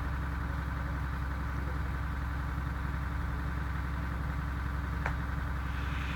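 Steady low hum with a light hiss over it, unchanging throughout, with one faint click about five seconds in.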